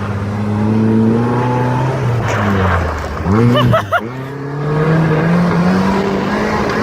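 Car engine with its mufflers cut off, revving hard while the car is driven. About three seconds in the revs jump up and down several times quickly, then the engine pulls steadily again.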